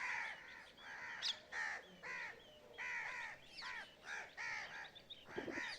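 Rose-ringed parakeet calling over and over, a run of short calls about two a second, each rising and falling in pitch.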